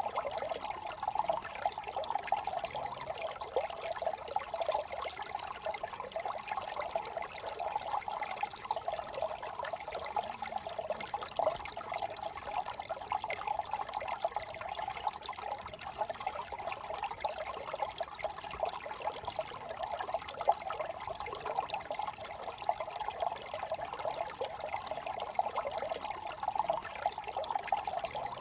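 Small brook trickling and babbling over stones: a steady run of water with quick, bubbling splashes.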